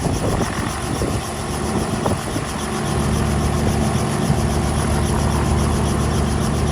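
An engine running, uneven at first, then settling into a steady low drone about three seconds in.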